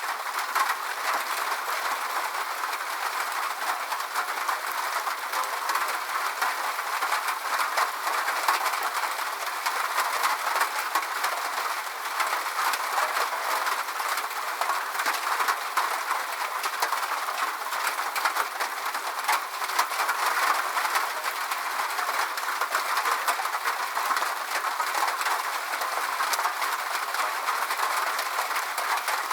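Steady rain falling: a dense, even patter of drops with no deep rumble.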